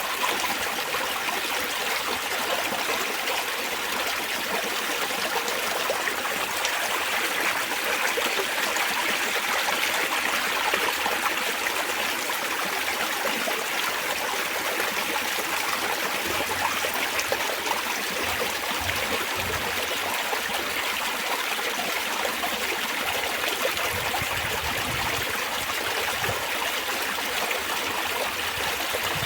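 Spring water trickling and babbling steadily over stones in a small stream, an even, unbroken rush with no pauses.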